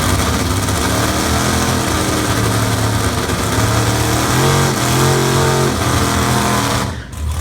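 1969 Dodge D100 drag truck's engine running loudly at idle, with one brief rev about four and a half seconds in. The sound drops off abruptly near the end.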